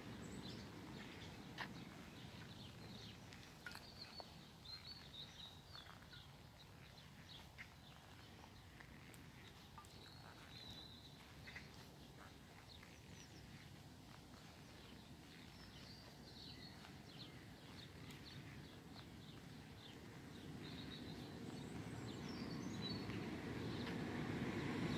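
Faint outdoor ambience with small birds chirping now and then. A low rumble, like approaching traffic, swells over the last few seconds.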